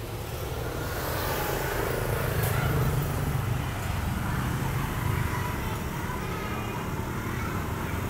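Street traffic: a steady hum of passing engines rising and falling slowly, with no single vehicle standing out.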